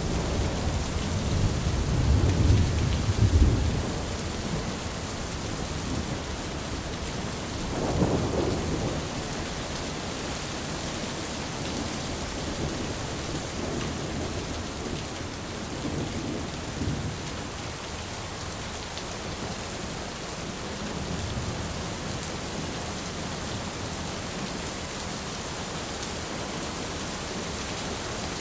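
Thunderstorm: steady rain hissing, with rolling thunder rumbling loudest in the first few seconds, another peal about eight seconds in, and fainter rumbles later on.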